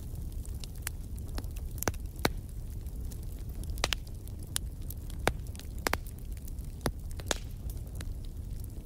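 Wood fire burning in a fireplace: a steady low rumble of flames with sharp crackles and pops of burning logs at irregular intervals, a few louder snaps among them.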